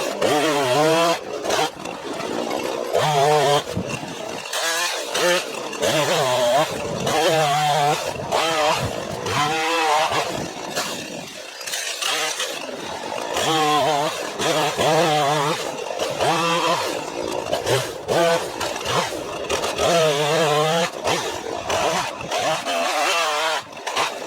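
Poulan Pro 5020 two-stroke chainsaw bucking a dead tree into firewood blocks. The engine revs up and falls back to idle over and over, once every few seconds, as each cut is made.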